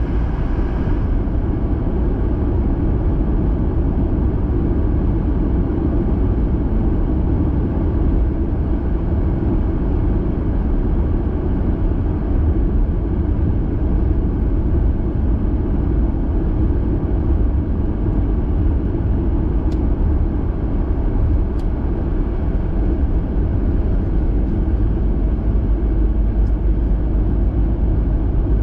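Steady low rumble of a car being driven: engine and tyre noise, with a few faint ticks in the second half.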